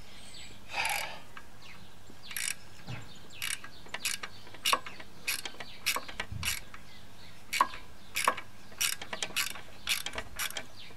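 Ratchet spanner clicking in short, irregular runs as the engine's mounting bolts are tightened down onto the mower deck.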